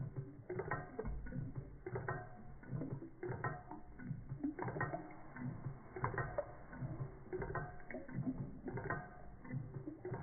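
Toy Stirling hot-air engine running and driving a small model pump, its linkages clacking in a steady, even rhythm.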